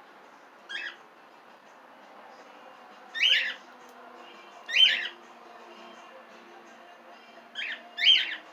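Pet cockatiels giving short, loud calls, five in all, each well under half a second, with the last two close together near the end.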